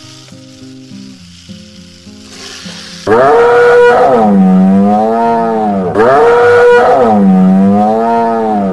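Soft background music, then about three seconds in a loud, drawn-out animal call that starts high, drops in pitch and levels off. The call is played twice, each time nearly three seconds long.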